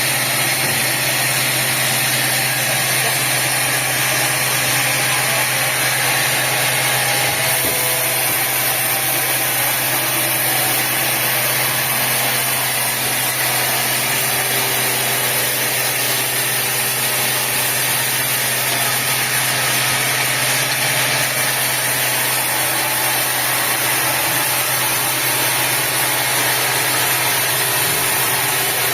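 Sawmill machinery running steadily: a continuous engine-like hum under an even hiss, with no marked change in pitch or load.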